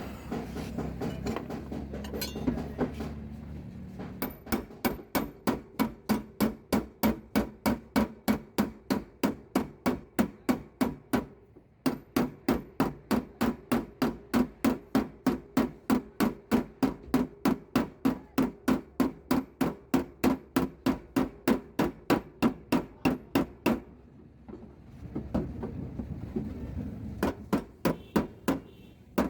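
Hammer tapping the sheet-steel door panel of a Maruti Suzuki Swift during dry denting: rapid, even metal taps about four a second, with a brief break midway and a longer pause before the tapping resumes near the end. A low steady rumble comes before the tapping begins.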